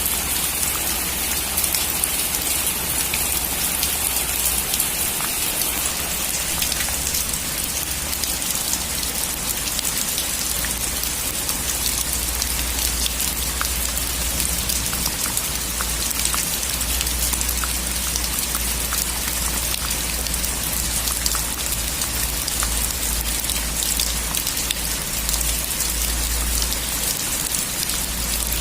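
Steady heavy rain drumming on a metal roof, a dense hiss full of fine drop ticks over a low, steady rumble.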